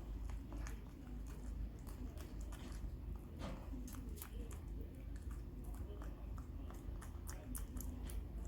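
A raccoon chewing banana: many short, irregular mouth clicks over a steady low hum.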